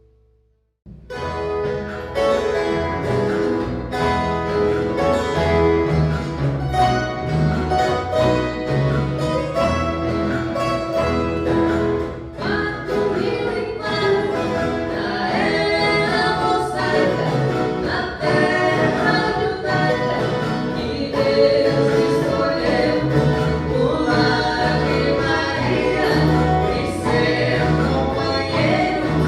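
Viola caipira orchestra playing, with many ten-string caipira violas strummed in an even rhythm and a group of voices singing together. The music starts suddenly about a second in, after a brief silence.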